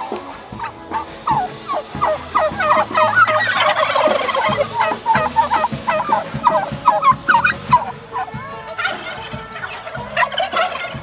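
A flock of turkeys gobbling, many rapid calls overlapping, thickest through the middle.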